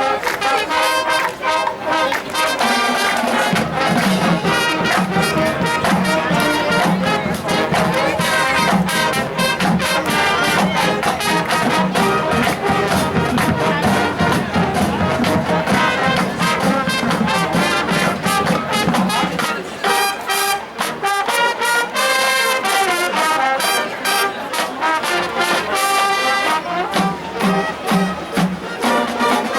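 High school marching band playing, brass-led with drums. A low bass part comes in a few seconds in, drops out briefly around twenty seconds in, then returns.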